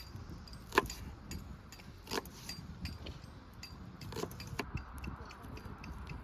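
Scattered light clicks and clinks of small hard objects being handled, with one sharper click about a second in, over a low outdoor rumble.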